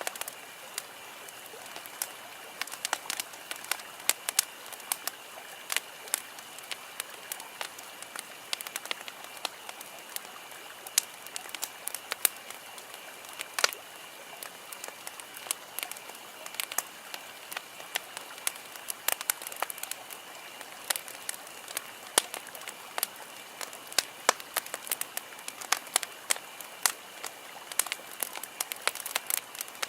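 Wood campfire crackling, with frequent sharp pops at irregular intervals over a steady hiss.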